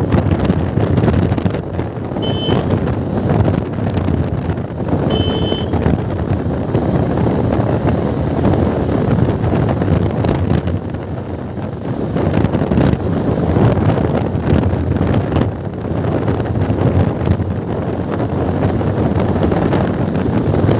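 Wind buffeting the microphone of a moving motorcycle, a loud steady rush with road and engine noise underneath. Two short high beeps cut through it, about two and five seconds in.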